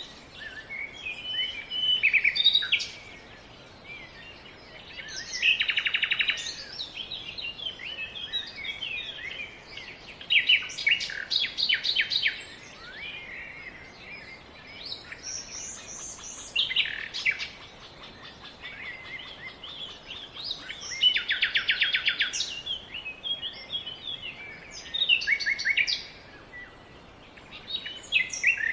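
Songbirds singing: chirps and song phrases recur every few seconds, several of them fast, buzzy trills, over a faint steady background hiss.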